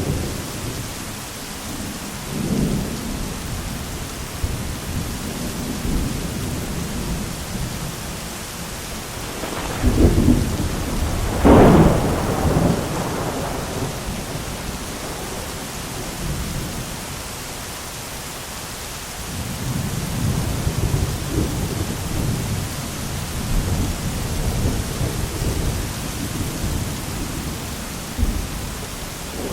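Thunderstorm: steady heavy rain with rolling thunder. The loudest peal comes about ten to twelve seconds in with a sharp crack, and a longer low rumble builds again past the twenty-second mark.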